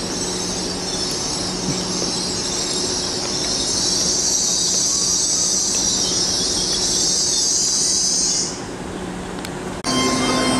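Train running past on the main line, with a high hissing squeal that grows louder and stops abruptly about eight and a half seconds in. Just before the end the sound switches suddenly to a steady hum with several even tones.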